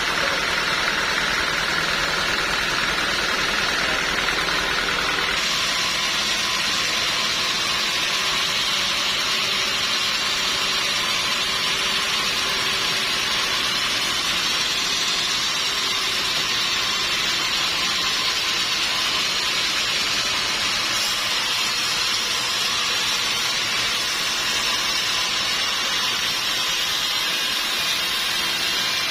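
Sawmill machinery running steadily, a constant hissing noise with no breaks; its tone shifts slightly about five seconds in.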